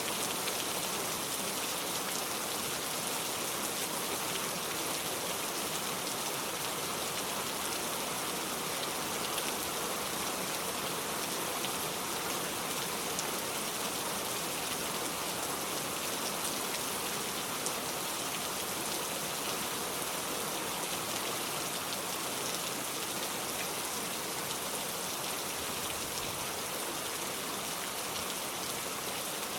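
Steady rain falling: an even hiss of rain with scattered faint drop ticks, unchanging throughout.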